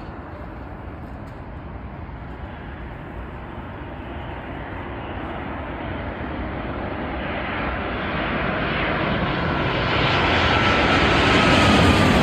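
Jet airliner's engines growing steadily louder as it approaches, with a thin whine that appears partway through and falls slightly in pitch near the end.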